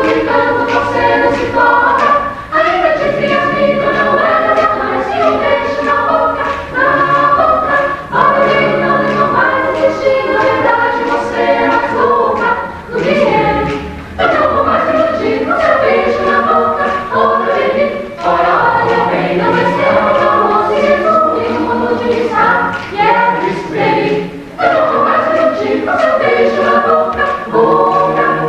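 A choir singing several voice parts together in long, sustained phrases, with short breaths between the phrases.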